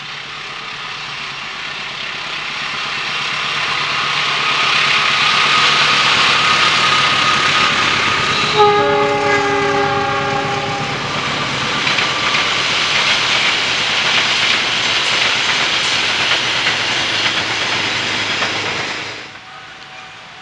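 A train passing close by, its wheel and running noise growing louder as it approaches. It sounds its horn once, a chord of steady tones lasting about two seconds, partway through. The noise drops away sharply near the end.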